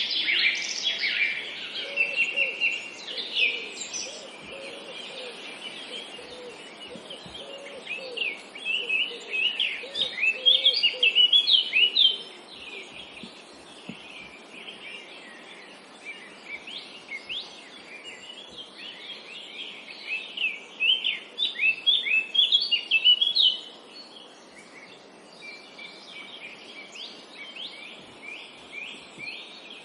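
Several songbirds chirping and trilling in rapid, overlapping phrases, with louder bouts of song every several seconds over a steady, soft background hiss.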